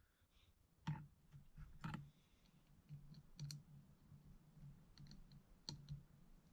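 Scattered sharp clicks and taps of small metal carburetor parts and a hand tool being handled while a carburetor is taken apart, about half a dozen in all, the loudest about one and two seconds in, over a faint low hum.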